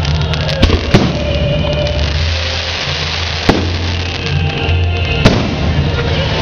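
Fireworks going off: four sharp bangs, two close together about a second in, one midway and one near the end, over steady music.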